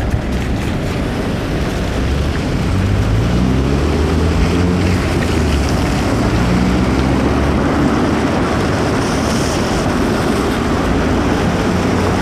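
Steady rush of wind on the microphone and wet road noise while riding an e-bike in the rain. A motor vehicle's engine rises in pitch as it accelerates nearby, from about three seconds in.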